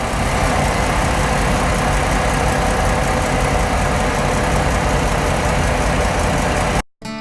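Yanmar marine diesel generator engine running, loud and steady, with a constant hum. It cuts off suddenly near the end.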